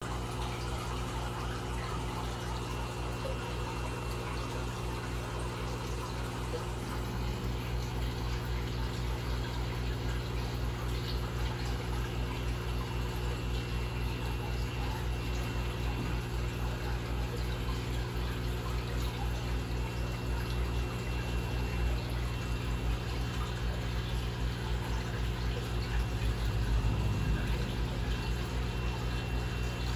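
Aquarium filtration running: a steady rush of moving water over a low, even pump hum.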